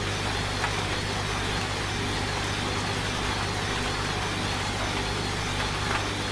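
Washing machine running with a steady low hum, under a constant hiss of rain with a few faint drop ticks.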